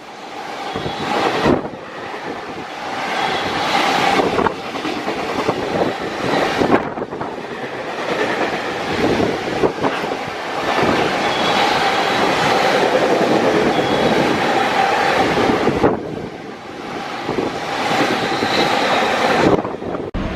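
Freight train passing at speed, with a continuous rumble and wheels clattering over the rail joints. A faint steady whine runs under it, and the sound breaks off abruptly a couple of times.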